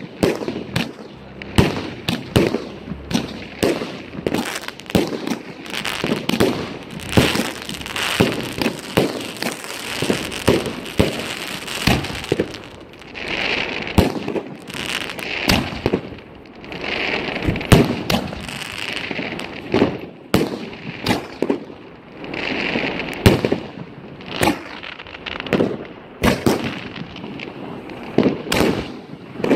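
Consumer fireworks batteries (cakes) firing in quick succession: a dense run of launch thumps and aerial shell bursts, several a second, with brief stretches of hissing crackle in between.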